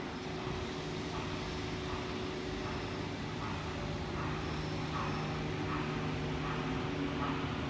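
Sydney Trains double-deck electric train running slowly into the platform, a steady low hum over a broad rumble.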